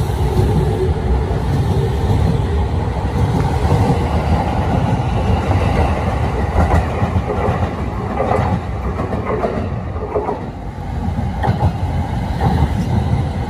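JR 209 series electric commuter trains rolling past the platform: a steady low rumble of wheels on rails with scattered clacks over the rail joints, and a steady motor hum at the start and near the end.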